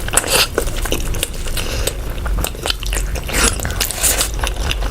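A person eating rice and curry close to the microphone: chewing with many short, irregular wet mouth smacks and clicks.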